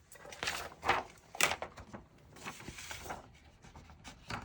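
Cardstock being handled and worked on a craft table: rustling and rubbing strokes, the two sharpest about a second and a second and a half in, then softer scraping.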